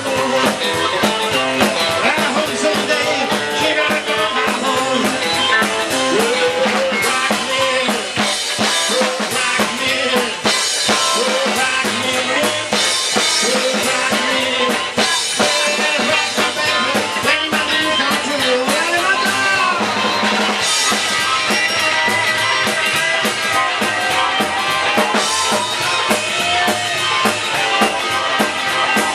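Rock and roll band playing live without vocals: drum kit with snare and bass drum under guitar, in a steady beat.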